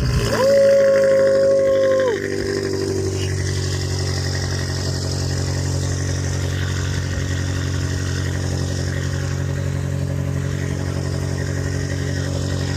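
BMW M5 engine revved up and held at high revs for about two seconds, then dropping back to a steady idle.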